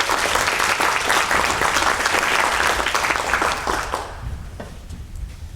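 Audience in a council chamber applauding, dense clapping that dies away about four seconds in.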